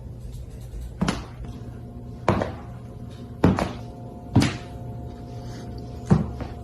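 Five dull thumps or knocks, roughly a second apart, over faint steady tones.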